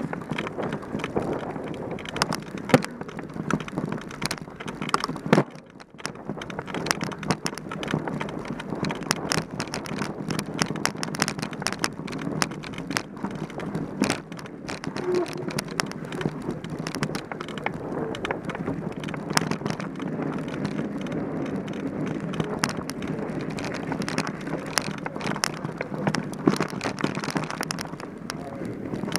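Mountain bike being ridden over a rough trail: steady tyre and riding noise with frequent rattles and knocks, two of them louder about three and five seconds in.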